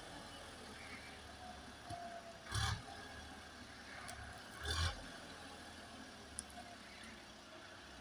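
Tractor engine running faintly and steadily, with two short, louder rushes of noise about two and a half and four and a half seconds in.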